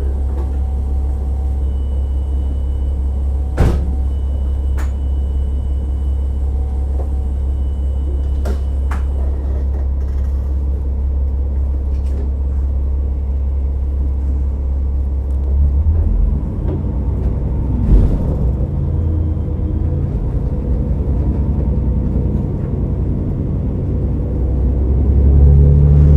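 Cabin running sound of a KiHa 47 diesel railcar under way: a steady low engine and track rumble, muffled as if from inside a pocket, with a couple of sharp knocks. About 16 s in the low engine note shifts, and it grows louder near the end.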